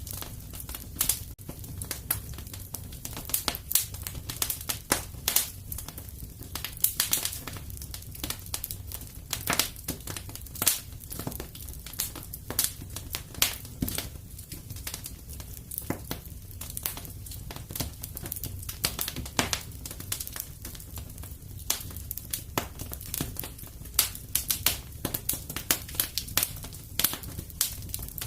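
Wood fire in a fireplace crackling: dense, irregular sharp pops and snaps over a steady low rumble of the flames.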